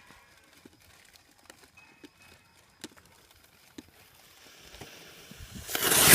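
A lit firework starting up: a few faint scattered clicks, then a hiss that swells in the last second and a half into a loud rush of sparks.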